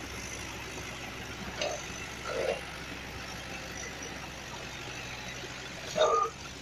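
Mahindra Sarpanch 595 DI tractor's diesel engine running steadily under load, pulling a loaded sugarcane trolley. A few short, louder sounds cut through, the loudest about six seconds in.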